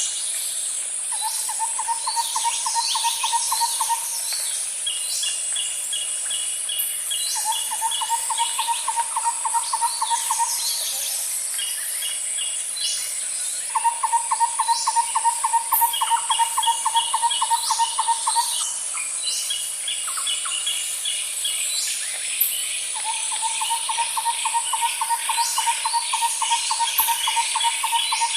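Outdoor nature ambience: a steady high-pitched insect drone, with a low rapid trill repeating four times for three to five seconds each, and scattered bird chirps and short chip series above it.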